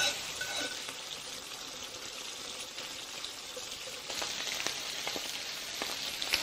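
Melted butter and halved Moreton Bay bugs sizzling in a hot ridged grill pan, a steady crackling hiss.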